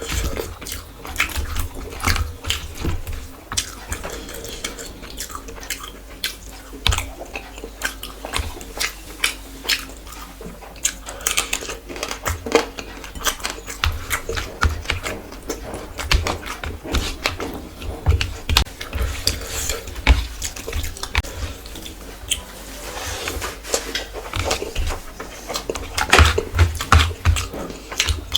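Close-miked eating sounds: chewing and smacking of rice and curry, with many irregular sharp clicks and wet mouth noises.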